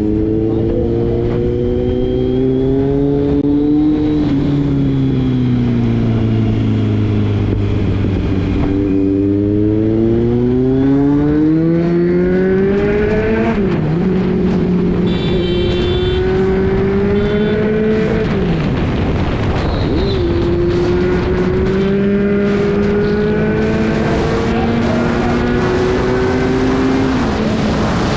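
Sport motorcycle engine with a loud aftermarket exhaust, ridden through the gears. The pitch climbs under acceleration, sags as the throttle eases off, and drops sharply at upshifts about 13 and 20 seconds in before climbing again.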